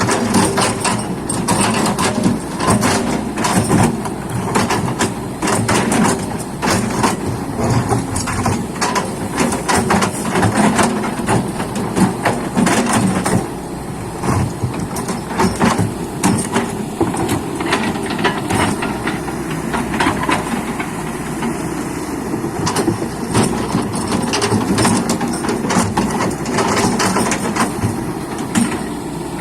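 Excavator's diesel engine running steadily under many short knocks and clatters of machinery working. The knocks come thick and fast for the first half and ease somewhat about halfway through.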